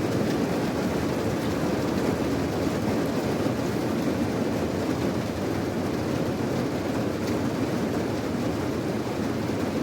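Heavy rain falling steadily, a deep, even rush with no breaks.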